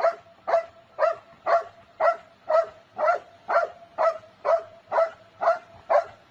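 A dog barking in an even, repeated rhythm: about two short barks a second, a dozen or so in all.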